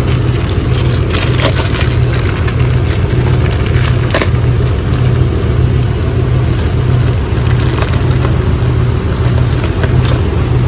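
A Jeep Liberty's V6 engine idling with a regular low pulsing beat; the engine has a misfire that is being traced to a bad ignition coil. A few light metallic clinks of tools are heard about a second in and again around four seconds.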